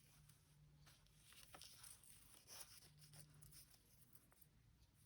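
Near silence: room tone, with a few faint rustles of paper cutouts being handled.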